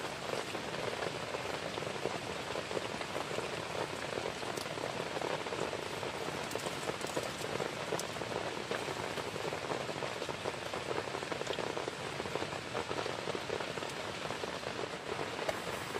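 Heavy rain falling steadily, a dense even hiss of drops with many small ticks of individual drops.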